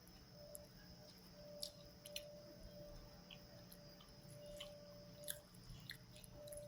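Faint close-up chewing, with soft, scattered wet mouth clicks and smacks as food is eaten.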